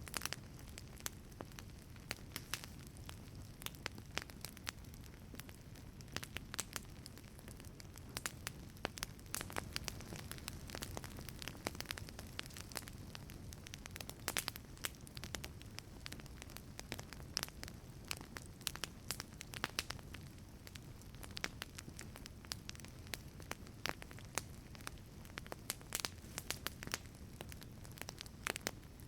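Wood fire burning in a wood-fired pizza oven, crackling with many sharp irregular pops and snaps over a low steady rumble of the flames.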